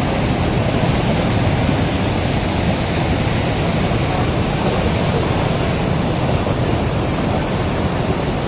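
Steady rushing of a stream in spate, its water level high after heavy rain.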